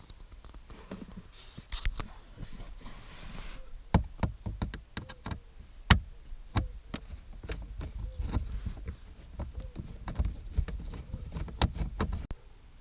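Irregular run of sharp clicks and knocks, like parts and tools being handled, with the loudest knock about six seconds in and a brief hiss near the start.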